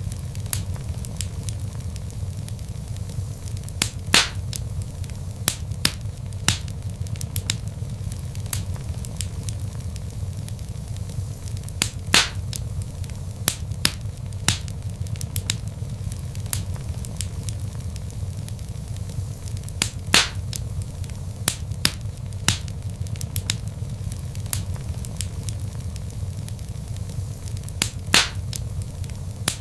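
Log fire crackling: a steady low rumble of flames under frequent small crackles, with louder sharp pops about every eight seconds.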